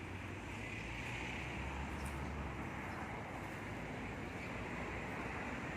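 Steady rumble of vehicle noise, with no distinct events.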